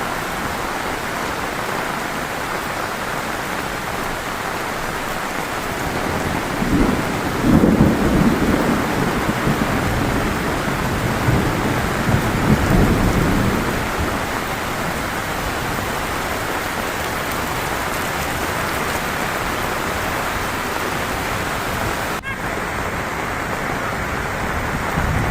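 Heavy rain falling steadily, with a long low rumble of thunder rolling in about six seconds in, swelling twice and fading away after about eight seconds.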